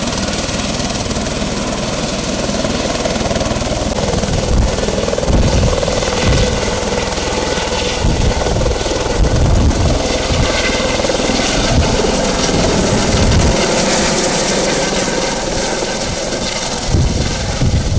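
Helicopter running loudly, with a steady high turbine whine that steps up slightly about four seconds in, and irregular low gusty surges underneath.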